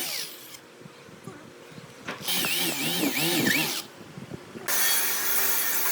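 Handheld power tool working wood, its pitch dipping and recovering again and again as it bites in and lets off, with brief quieter gaps; near the end it settles into a steady run.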